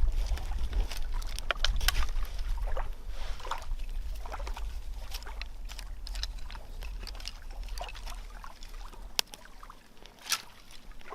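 Small newly lit fire crackling, with scattered sharp pops and snaps, over a low wind rumble on the microphone that fades out near the end.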